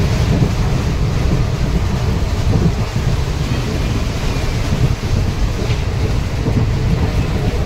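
Steady, loud low rumble of a moving passenger train, heard from inside the coach beside the window.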